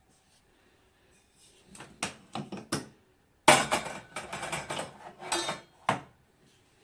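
Metal clinking and clattering: a few light knocks, then about two seconds of loud clatter that starts with a sharp hit, and a final knock near the end.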